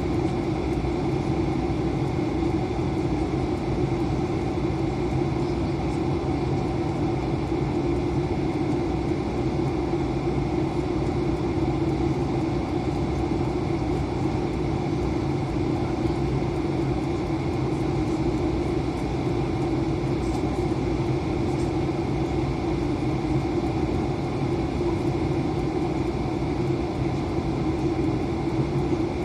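Airbus A320 running with a steady, unchanging rumble of engines and airflow, a constant drone with a low hum in it.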